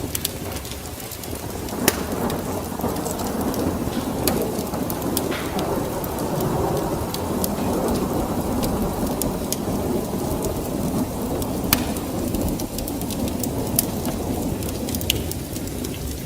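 Steady rain with a long, low rumble of thunder that swells a couple of seconds in and fades near the end. A few sharp pops sound over it.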